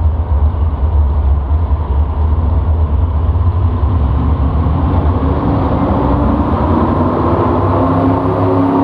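A loud engine of a pulling vehicle running steadily, a deep rumble under a haze of noise, with its pitch rising slightly near the end.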